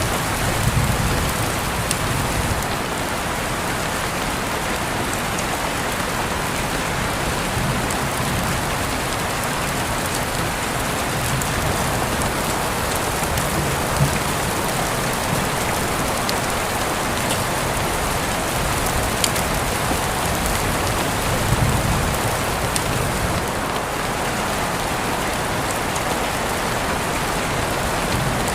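Steady, even rainfall pattering on surfaces, with occasional sharp ticks of single drops landing close by.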